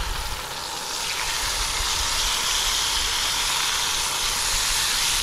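Catfish fillets sizzling in hot oil in a small pan on a camp stove. The sizzle is steady and grows louder about a second in.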